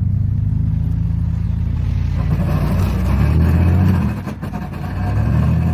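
A motor vehicle engine running steadily, with a low hum that swells a little around the middle and eases off after.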